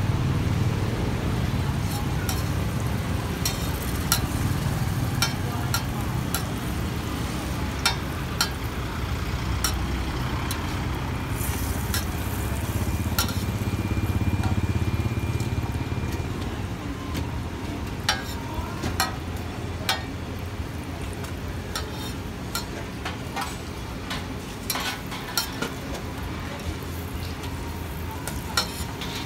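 Roti pancake frying in oil on a flat steel griddle, sizzling, with frequent sharp taps and scrapes of a metal spatula on the griddle. A low engine rumble runs underneath, heavier in the first half.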